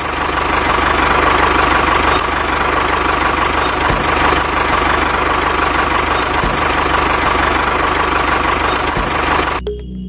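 Steady engine-like mechanical running sound: a dense rattling hum with a constant whine over it, which cuts off suddenly near the end.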